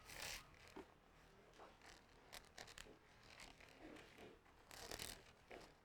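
Near silence with a few faint, brief rustles of paper: thin Bible pages being turned to a new passage.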